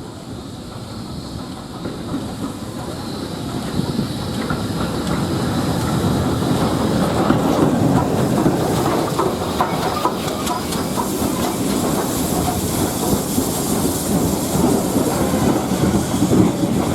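Train approaching and running past, growing steadily louder over the first several seconds, then its wheels clattering over the rail joints.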